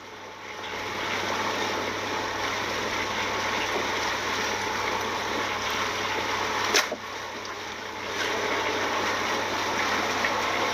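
Steady rushing and splashing of water, with a single sharp knock about seven seconds in.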